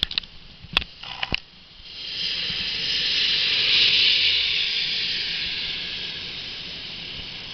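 Heavy rain pouring down in a thunderstorm, a hiss that swells about two seconds in, peaks near four seconds and slowly eases, after a few sharp clicks in the first second and a half.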